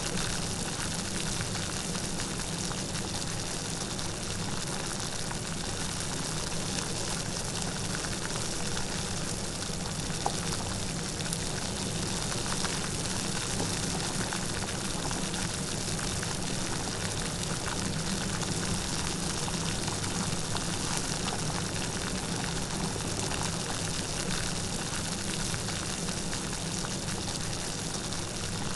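Steady light rain falling, an even hiss with faint scattered drop ticks and no thunder.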